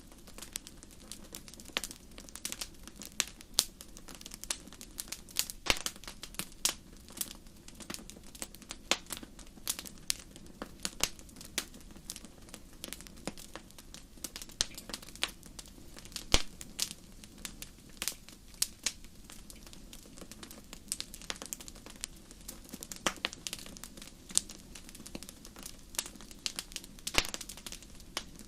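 Wood fire crackling in a fireplace: irregular sharp pops and snaps, several a second, over a steady low rush from the burning.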